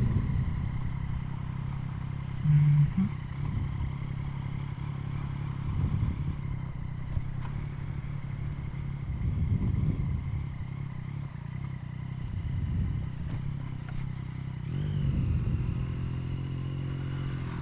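Yamaha MT-09's inline three-cylinder engine, breathing through an Akrapovic carbon full exhaust, running at low revs as the bike rolls slowly, with a brief louder blip of throttle about two and a half seconds in and a few gentle swells after it.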